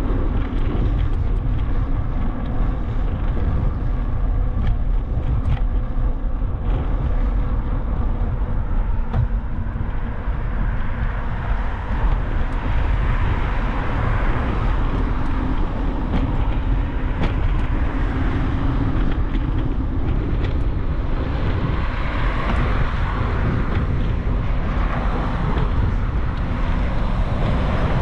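Road traffic heard from a bicycle on the move, over a steady low rumble of wind on the microphone; passing vehicles swell up twice, about halfway through and again later.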